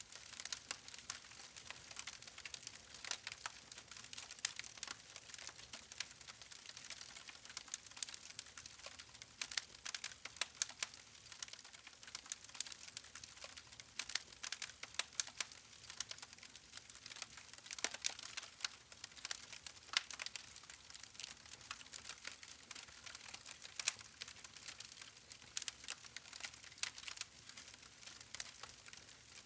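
Wood fire crackling steadily: a dense run of irregular sharp pops and snaps from the burning logs over a soft hiss, none much louder than the rest.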